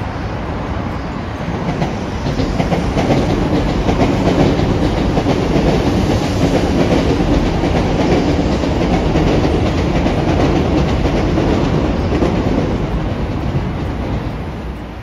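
A train passing, growing louder from about two seconds in, holding through the middle and fading near the end, with a steady rumble of wheels on rails and faint clicking over the rail joints.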